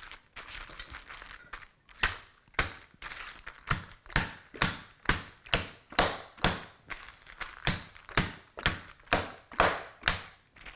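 Bottle of olive oil used as a meat pounder, beating a chicken breast flat inside a plastic zip-top bag: a steady run of thuds, about two a second, starting about two seconds in.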